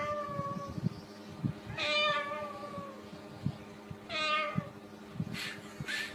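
A domestic cat meowing: one meow trailing off at the start, then two more about two seconds apart, each sliding down in pitch, with faint soft taps underneath.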